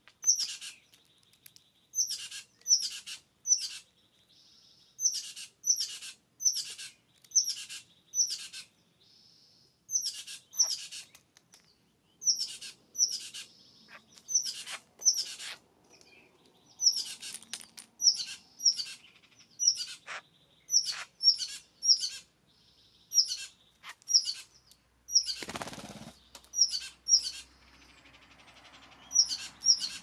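A bird calling over and over: short, sharp, downward-sweeping chips in quick runs of two to four. About 25 seconds in comes a brief flurry of wingbeats.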